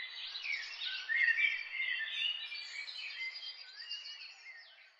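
Quiet birdsong: several birds chirping and twittering at once, thinning out and fading away near the end.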